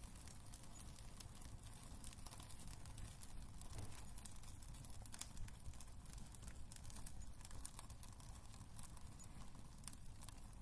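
Wood fire burning in a fireplace, with many small irregular crackles and pops over a low, steady rumble of the flames.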